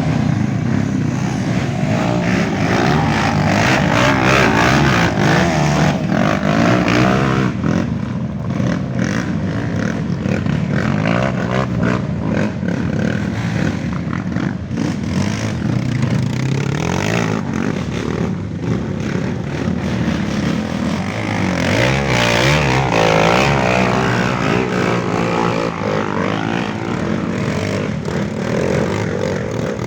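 Off-road trail motorcycle engines revving up and down, several at once, as the bikes ride through a muddy swamp.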